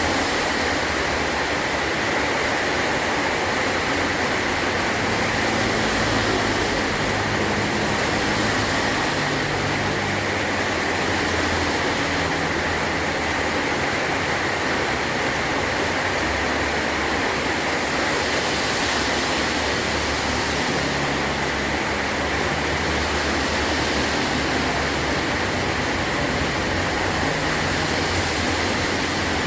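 Heavy rain falling steadily on a metal roof, an even hiss with a low, uneven rumble underneath that swells and fades.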